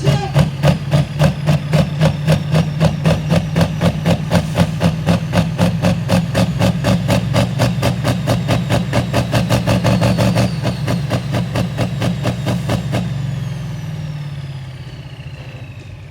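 Big engine of a modified pulling tractor idling with a heavy, lumpy pulse, about four to five beats a second. Over the last few seconds it fades away, with a thin whine falling in pitch.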